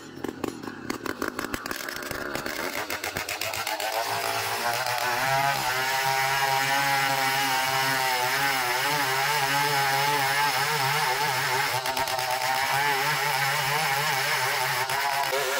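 Chainsaw engine picking up from a fast pulsing run over the first few seconds to a steady high-speed drone with a slightly wavering pitch, as when cutting through an ironwood log.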